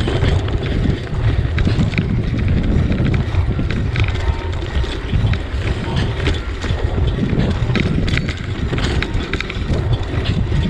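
Wind buffeting the microphone of a moving bicycle as a steady low rumble, with tyre noise and scattered short clicks and rattles from the bike.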